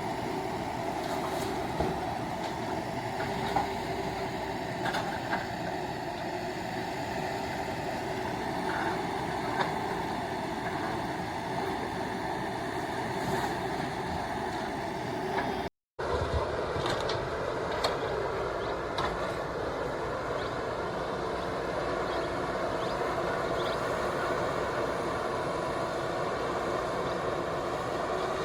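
JCB 3DX backhoe loader's diesel engine running steadily under working load, with scattered short knocks and clanks. The sound drops out for a moment about halfway through, then the engine carries on.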